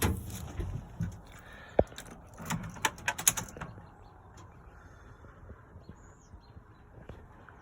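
A few sharp clicks and knocks in the first few seconds, then quiet with faint bird chirps.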